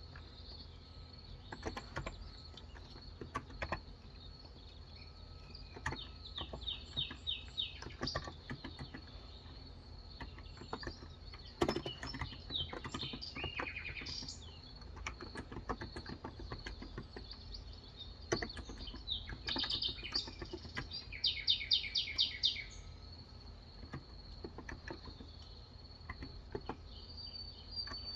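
Typing on a Cox Endeavor 35 g electrostatic capacitive (Topre-style) tenkeyless keyboard: soft keystroke clicks in irregular bursts. Birds chirp in quick trills, loudest about two-thirds of the way in, over a steady high-pitched drone.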